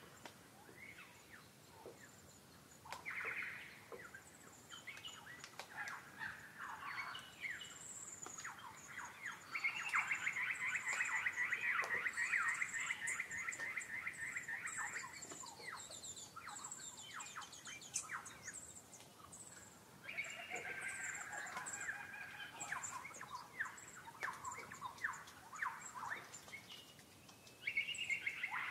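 Wild birds calling and singing: scattered sharp chirps and high thin notes, with a long fast trill near the middle (the loudest part) and another burst of rapid calls later.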